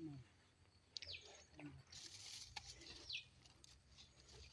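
Faint bird calls: two short chirps, each falling in pitch, about two seconds apart, over quiet outdoor background.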